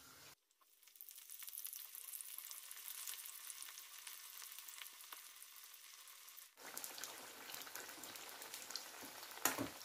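Pieces of raw jackfruit deep-frying in hot oil in a steel kadhai: a steady sizzle full of fine crackles.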